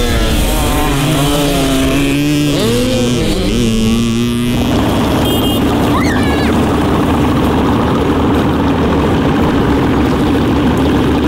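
Dirt bike engine revving, its pitch climbing and dropping again and again as the rider works the throttle and gears. About four and a half seconds in, it changes abruptly to a steadier, rougher engine drone.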